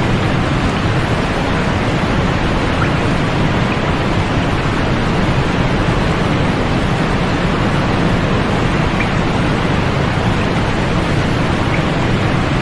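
Steady white-noise sleep track: an even, unchanging hiss with a dulled top end.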